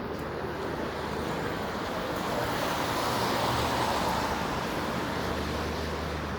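Street traffic on a wet road: a vehicle passes, its tyre hiss swelling to a peak about halfway through and then fading, over a steady low engine rumble.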